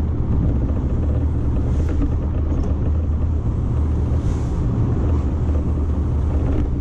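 Toyota MR2's turbocharged 3S-GTE four-cylinder engine running steadily under way at an even speed, heard inside the cabin as a constant low drone with road noise.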